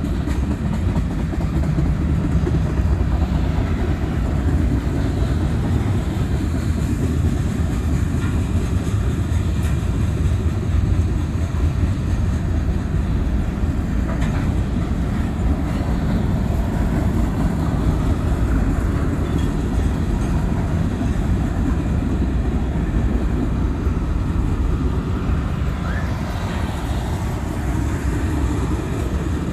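Tank cars and covered hoppers of a long freight train rolling past: a steady, loud rumble of steel wheels on rail with some clatter.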